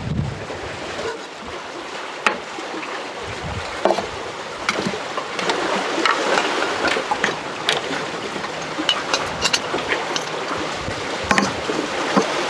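Kayak being paddled through shallow water: splashing and sloshing, with many short sharp knocks and clicks scattered through it.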